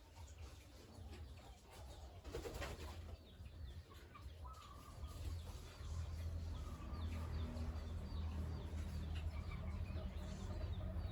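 Small birds chirping over a steady low hum that grows louder about six seconds in.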